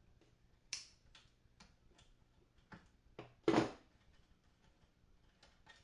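A string of light clicks and taps from tools and small parts being handled on the amp, with a louder knock about three and a half seconds in.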